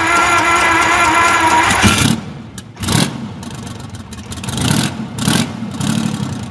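An engine running steadily with a whine, cutting off abruptly about two seconds in, followed by several short separate bursts of engine noise.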